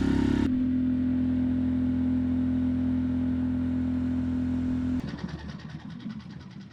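An engine running at a steady pitch, which cuts off abruptly about five seconds in, leaving a much fainter sound.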